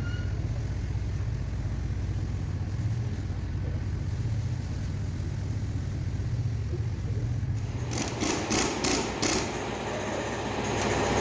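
An engine idling steadily, with several short loud bursts about eight to nine and a half seconds in and a louder, rougher running sound near the end.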